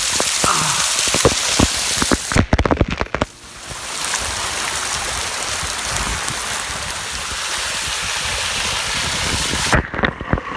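Manoa Falls, a 150-foot waterfall, pouring into its pool: a steady, loud rush of falling water. About two and a half seconds in, a few knocks come and the sound briefly drops away, and again near the end.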